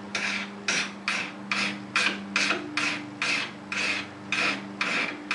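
Nicholson Handy file strokes across the steel tip of a cheap screwdriver, shaping it into an awl point, in a steady rhythm of about two strokes a second. The file bites easily, which the maker takes as a sign the screwdriver's steel is pretty soft.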